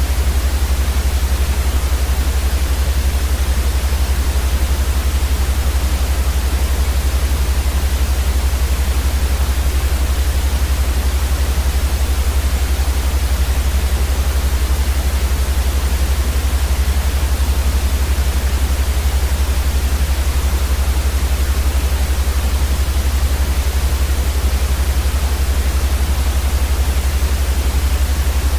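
Steady white noise for baby sleep: an even, unbroken hiss across all pitches over a strong deep rumble, unchanging throughout.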